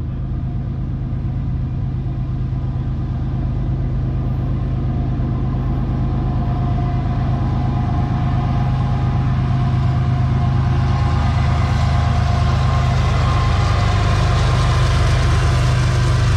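Diesel locomotives of a CSX freight train (GE ES44AH units) running with a steady low engine drone that grows gradually louder as the train comes closer.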